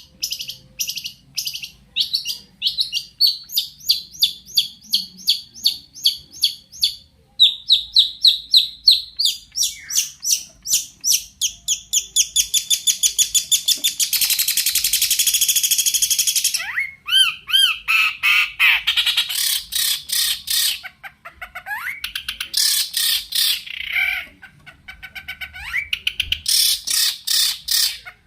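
Long-tailed shrike (cendet) singing loudly and without pause. Its song is a varied, mimicry-packed medley: fast runs of rapidly repeated chirps, a harsh buzzing rattle about halfway through, then rising whistled sweeps and more chattering runs.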